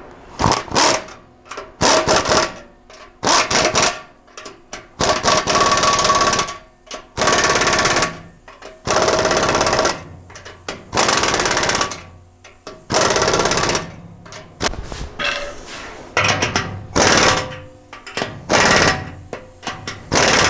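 Power impact wrench rattling in about a dozen short bursts, running down the nuts on the exhaust pipe clamps.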